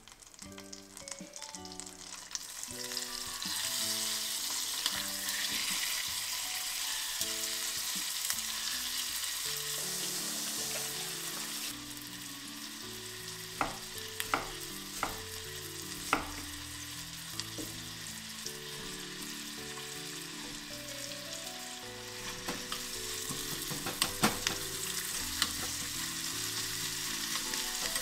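Chicken thigh and onion sizzling in butter in a pot, with a steady hiss throughout. A few sharp knocks of a knife on a wooden cutting board come around the middle and again later. Soft background music with a simple melody plays underneath.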